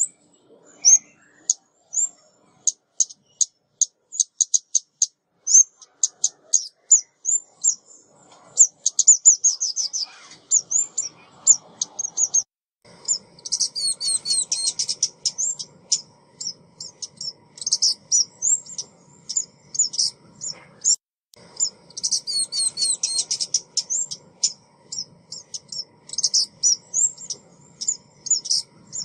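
A small songbird's rapid, high-pitched chirping and trilling, the decoy call of a female ốc mít bird used to lure birds. The notes come in quick runs, growing into dense trills about halfway through, with a faint steady hum underneath.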